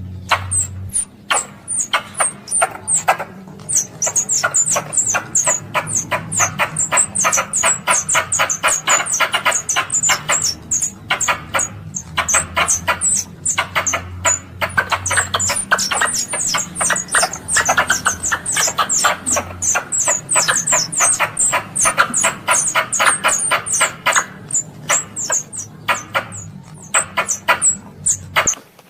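Squirrel calling: a long, rapid run of sharp, high chirps, several a second, which cuts off suddenly near the end. These are calls used to lure other squirrels in.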